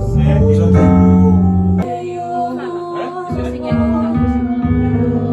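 Band rehearsal music: held chords on bass and keyboard with guitar, and some singing.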